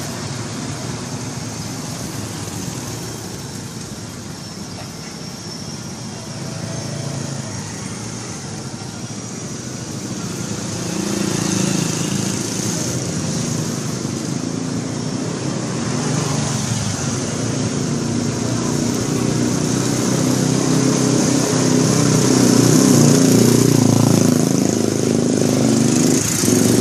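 A concrete mixer truck's diesel engine running, growing louder through the second half.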